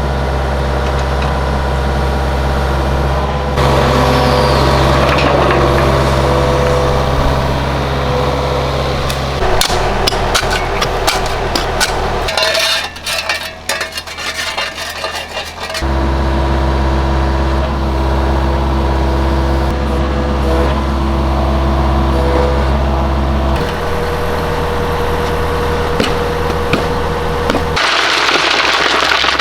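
An engine running steadily, its pitch changing a few times; it drops out for a few seconds about a third of the way through, when sharp clicks and knocks of stone come through, then starts up again. Near the end the engine gives way to a noisy hiss.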